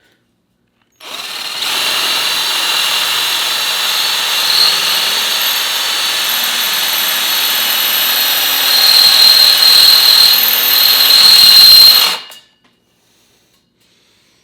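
Cordless drill boring into a metal exhaust flange to enlarge its bolt holes to match the gasket. It runs steadily with a high whine for about eleven seconds, gets louder over its last few seconds, then stops.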